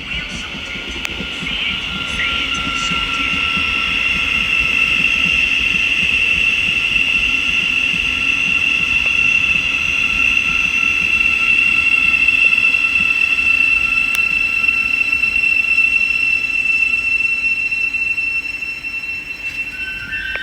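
Thameslink electric train running into the platform, with a long steady high-pitched squeal over the rumble of the train. The sound swells for about twelve seconds and then eases. Short stepped electronic tones start near the end.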